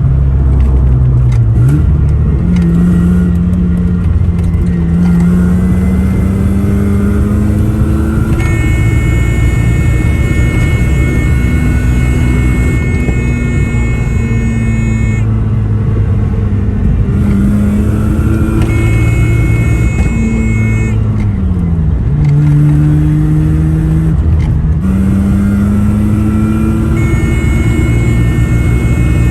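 Mazda RX-7 FC's 13B rotary engine pulling through the gears on a test drive, its pitch climbing with the revs and falling away at several gear changes. A steady high whine comes and goes. The engine is one that still misfires at high rpm even with a new fuel pump.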